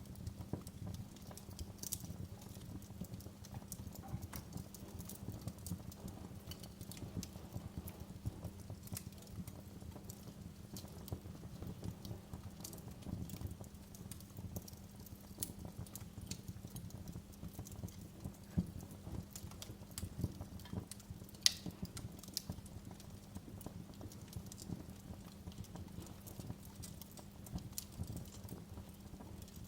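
Wood fire crackling in a fireplace: a steady stream of irregular small pops and snaps over a low hum, with a couple of louder sharp pops in the second half.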